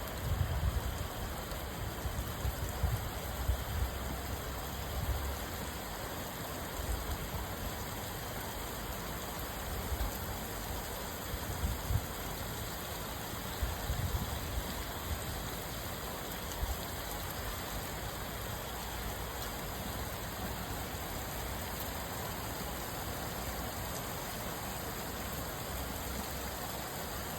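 Steady rain falling, an even hiss. Irregular low rumbles come and go through the first half, then die away.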